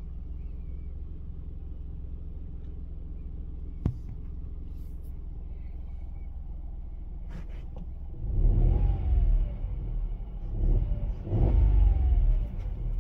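2023 Hyundai i10's engine idling steadily inside the cabin, with a single sharp click about four seconds in. From about eight seconds it is revved in several short rising-and-falling blips, the last and loudest climbing to about 2,600 rpm near the end before dropping back.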